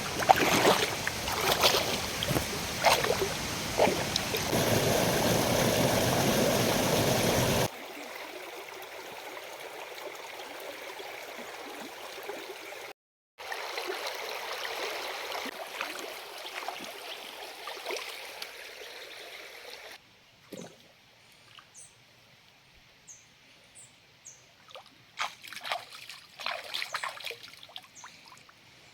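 Running stream water trickling and splashing, heard in several short edited shots: loud with sharp knocks and splashes in the first few seconds, then a quieter steady flow. In the quietest last part there are scattered knocks and short high bird chirps.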